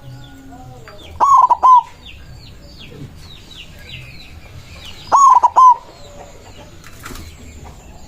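White zebra dove (perkutut) cooing its song twice, about four seconds apart; each phrase is a quick run of several loud notes. Faint chirping of small birds runs underneath.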